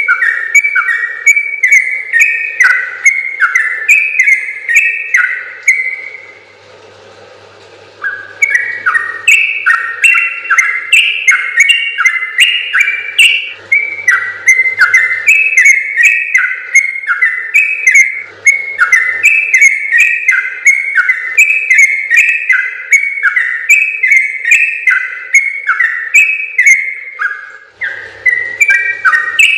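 Yellow-vented bulbul (trucukan) singing a long, fast run of short bubbly whistled notes, each dipping in pitch, with a pause of about two seconds near a quarter of the way in and a brief break near the end.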